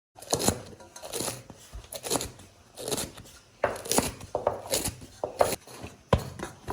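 Food being cut by hand: a series of irregular sharp cutting strokes, roughly one a second.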